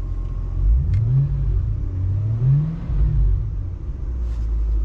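Ford 5.4-litre three-valve V8 running at idle and blipped twice, its pitch rising and falling back about a second in and again about two and a half seconds in. The engine is running on a newly fitted alternator.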